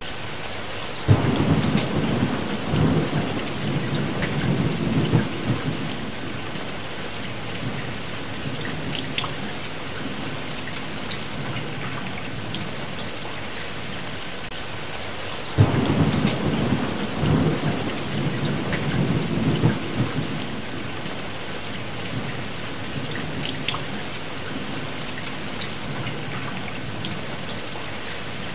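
Steady rain with two claps of thunder, one about a second in and one about halfway through, each starting sharply and rumbling on for several seconds.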